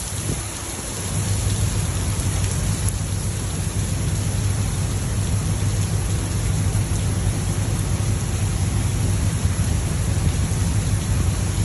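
Heavy rain falling steadily, with a steady low rumble underneath that grows louder about a second in.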